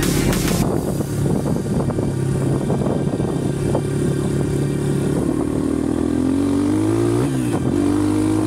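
Regulmoto dirt bike's engine running under way, its pitch steady, then climbing as it revs up, dropping sharply and picking up again near the end as at a gear change.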